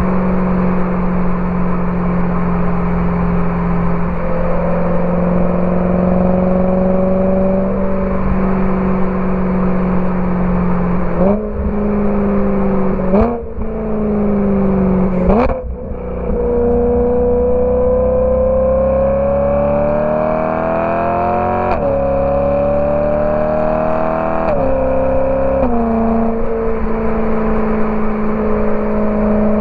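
BMW E92 M3 V8 through a Borla ATAK exhaust, on the move. It cruises at first, then takes three quick downshifts with a blip of revs each, then accelerates with rising revs and a few upshifts that drop the pitch, and settles to a steady cruise near the end.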